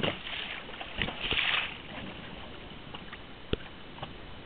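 Small fishing boat on the sea: a steady rush of wind and water with a short louder wash a little over a second in, and a few sharp knocks against the boat, the loudest about halfway through.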